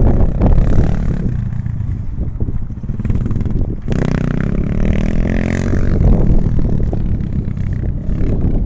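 Enduro motorcycle engine running loudly as it is ridden, its pitch rising and falling with the throttle about four seconds in, over a steady rumble and clatter.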